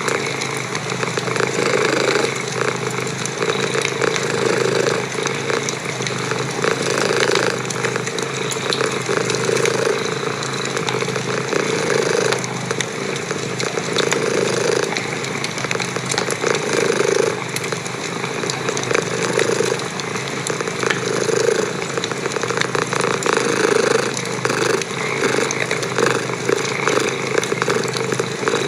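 A cat purring, a steady engine-like rumble that swells with each breath about every two seconds, over the scattered crackle of a wood fire.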